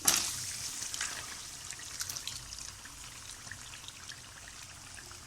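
Yogurt-marinated chicken going into a hot kadhai of ghee-fried onion-tomato masala: a loud sizzle bursts out as it hits the pan, then settles into a steady frying hiss with scattered crackles.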